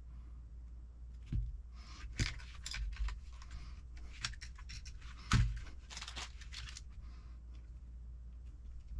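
Small parts and hardware being handled on a workbench: a few sharp knocks and clicks, the loudest about five seconds in, with rustling and scraping between them, over a steady low hum.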